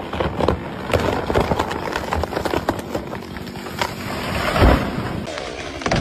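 Wood of a tree cracking and snapping in many irregular sharp cracks, with a heavy thud about three-quarters of the way through.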